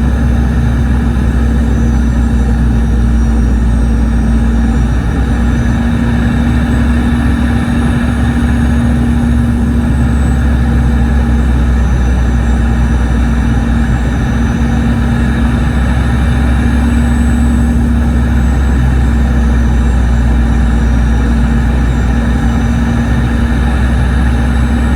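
Boeing 717's rear-mounted Rolls-Royce BR715 turbofan engines running steadily, heard inside the passenger cabin: a loud low rumble with a constant hum and a faint high whine.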